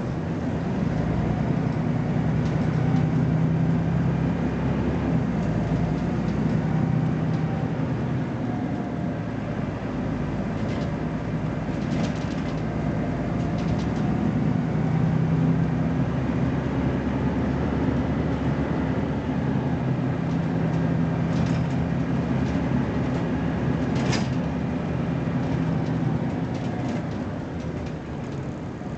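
BMC Belde 220-SLF city bus engine running under load, its note strengthening and easing in stretches as the bus pulls away and changes gear. A few sharp clicks or rattles sound over it.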